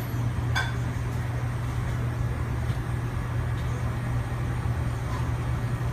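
Hoshizaki single-door refrigerator's refrigeration system running on a fresh R-134a charge: a steady low hum of compressor and condenser fan, with a brief click about half a second in.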